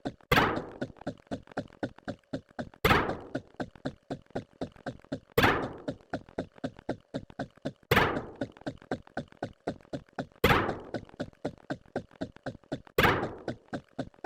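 A rapid run of short ticks or knocks, several a second, with a louder thunk about every two and a half seconds, repeating as an even loop.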